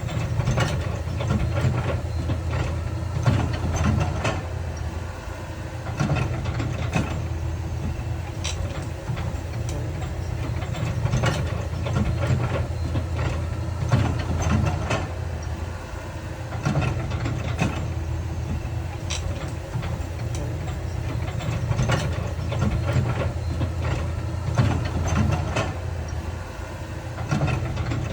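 Heavy diesel earthmoving machinery at work: a low, steady engine note that swells and eases every few seconds, with frequent metallic clanks and knocks.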